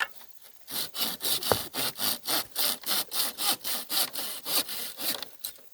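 Bamboo being cut by hand in quick, even strokes, about three or four a second, stopping shortly before the end.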